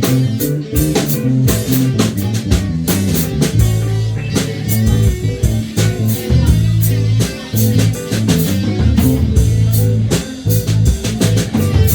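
Live rock band jamming instrumentally: guitar over a bass line, with a drum kit keeping a steady beat.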